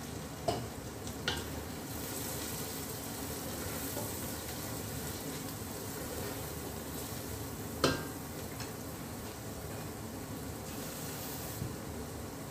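Chopped onions, whole spices and garlic paste sizzling in desi ghee in a stainless steel pot, stirred with a metal spoon. The spoon clicks against the pot a few times, most sharply about eight seconds in.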